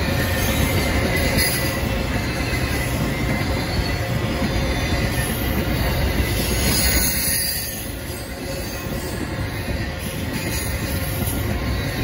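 Double-stack intermodal freight train's container cars rolling past, a steady noise of steel wheels on the rails that eases slightly about eight seconds in.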